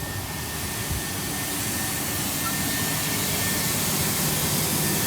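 Class 377 Electrostar electric multiple unit standing at the platform, giving off a steady hiss with a thin high whine and a low hum that comes in about a second in and grows slightly louder. It is an unfamiliar noise that the onlooker doesn't recognise and doesn't like the sound of.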